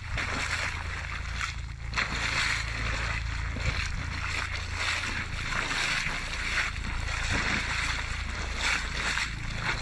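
A steady low motor hum under rushing, splashing water.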